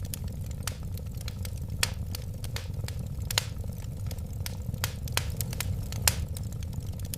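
Wood fire burning: scattered sharp crackles and pops over a steady low rumble of flames, with a few louder pops.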